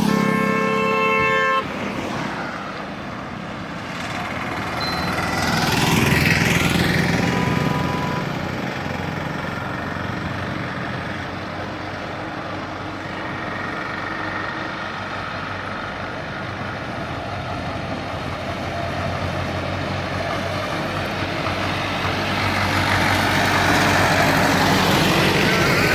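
Tractor diesel engines running under heavy load, hauling fully loaded sugarcane trolleys, with a vehicle horn sounding briefly at the start. The engine sound swells about six seconds in and again near the end.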